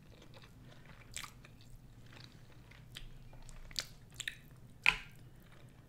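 Close-miked chewing and mouth sounds while eating sushi, with a handful of short wet smacks and clicks scattered through the quiet. The loudest smack comes about five seconds in.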